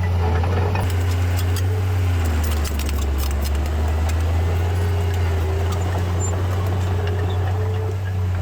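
Heavy diesel engine of earthmoving machinery running steadily; its note deepens about two seconds in, with light metallic clanking.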